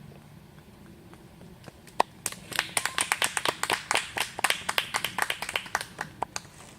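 A small group of listeners clapping by hand. The clapping starts about two seconds in and dies away after about four seconds.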